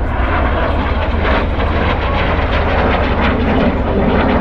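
A fixed-wing aircraft flying its airshow display, its engine noise a loud, steady rush that swells slightly.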